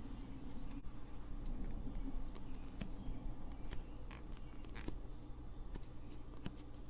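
Slime being handled, giving irregular small clicks and pops over a low steady hum.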